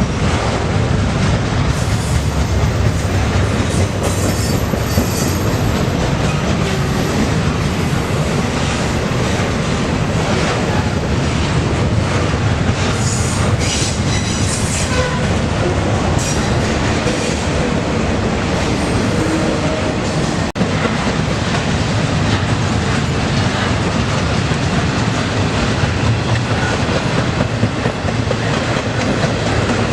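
Freight train cars rolling past close by: a steady rumble and clatter of wheels over the rails, with brief high wheel squeals a couple of times.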